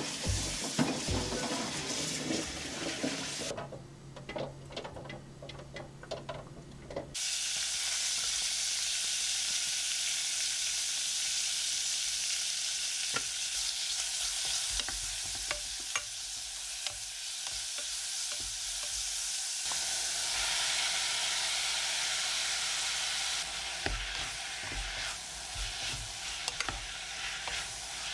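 A few light clinks at the sink, then, about seven seconds in, beef sizzling hard in sesame oil in a pot as it is stirred with a wooden spatula. About twenty seconds in the sizzle quietens as softened seaweed is stir-fried together with the beef for seaweed soup.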